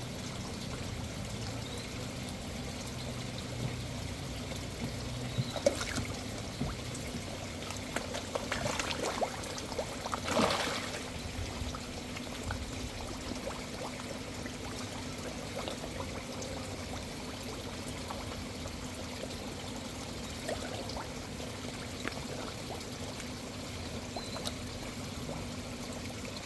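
Water pouring and trickling steadily into a koi pond, with a low steady hum underneath. A cluster of short splashes comes around the middle, the loudest about ten and a half seconds in.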